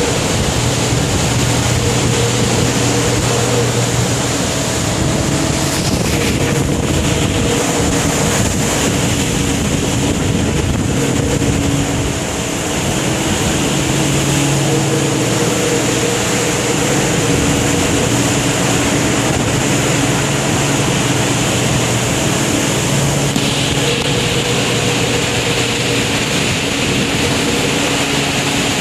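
Steady loud rush of storm wind and heavy sea, with a low, steady machinery hum underneath.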